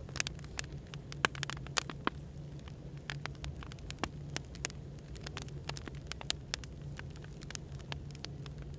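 Burning firewood crackling, with irregular sharp pops several times a second over a steady low hum of background noise.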